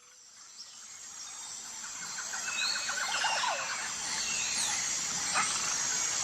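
Outdoor animal ambience fading in from silence: birds chirping over a steady high hiss.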